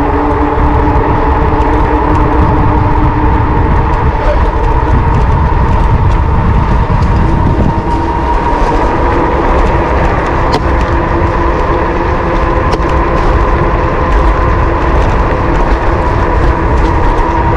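Wind rumbling on the microphone of a moving electric bike, over the steady whine of its electric motor, which rises slightly in pitch about four seconds in as the bike picks up speed.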